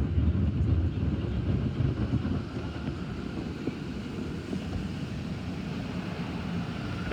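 Automatic car wash equipment running around the car, heard from inside the cabin: a steady rushing noise over a low rumble, somewhat louder for the first couple of seconds.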